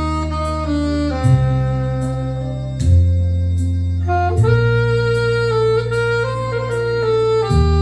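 Instrumental music: a solo melody instrument plays a slow tune over a backing track whose held bass notes change every second or two.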